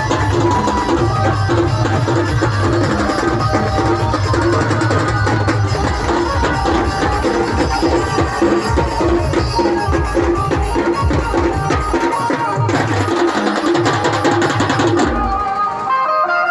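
Dhumal band music: fast, dense drumming on a steady repeating beat under a melody. The drums drop out near the end, leaving the melody.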